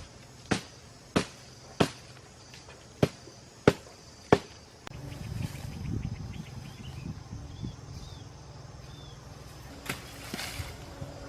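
A series of sharp knocks, about one every half second to second, which stops about five seconds in. A steady low rumble follows, with a few faint short chirps.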